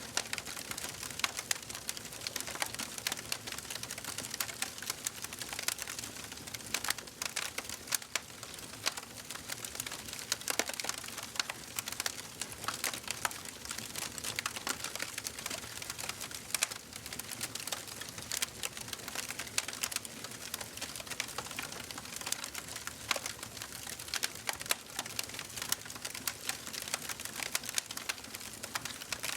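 Fire burning in a fireplace, crackling: dense, irregular snaps and pops over a soft hiss, with a few louder pops scattered among them.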